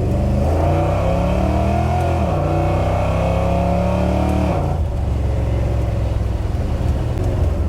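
1972 Plymouth Scamp's bored-out 318 V8 under hard acceleration: the revs climb, drop sharply at an upshift of the 727 automatic about two seconds in, and climb again. About four and a half seconds in the throttle eases off and the engine settles to a steady low rumble.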